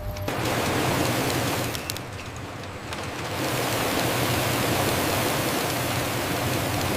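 A steady rushing hiss that dips briefly about two seconds in, then comes back louder and brighter a second later.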